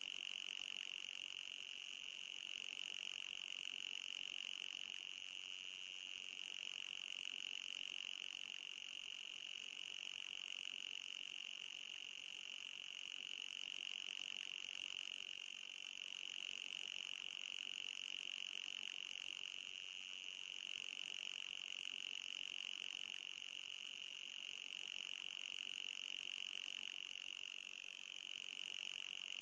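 Electronic anti-mosquito repellent tone: a steady high-pitched whine with a fainter, higher whine above it, wavering slightly but never stopping.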